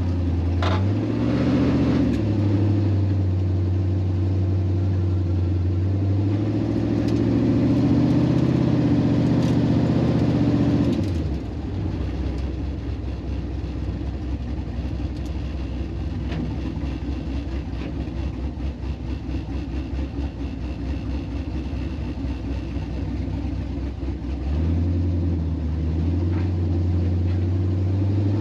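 Car engine running at a steady speed. It steps up about half a second in and again at about six seconds, falls back to a lower, uneven idle about eleven seconds in, and picks up again near twenty-five seconds.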